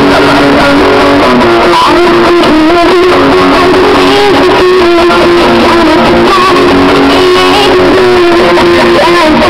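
Guitar-led music played very loud through a car sound system, the stereo being tested at high volume.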